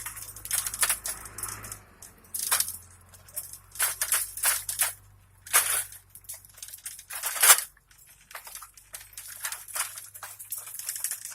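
Footsteps crunching on loose ground, an irregular run of short crunches with one louder crunch in the second half.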